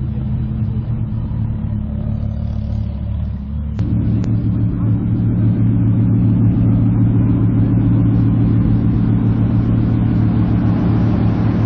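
Supercar engines idling at low revs, a deep steady hum with no revving. About four seconds in the sound changes abruptly and grows louder.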